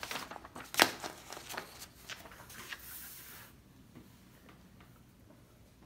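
Paper being handled and written on while signing documents: rustling and scratching of sheets, with one sharp tap about a second in, settling to quiet handling after about three and a half seconds.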